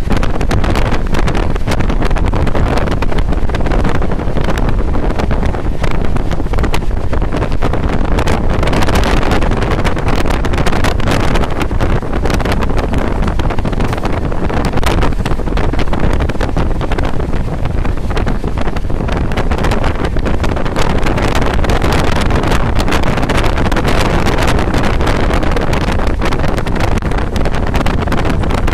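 Indian Railways express train running at speed, heard from aboard: a steady, loud running noise of the carriage on the track, dotted with many short clicks, with wind buffeting the microphone.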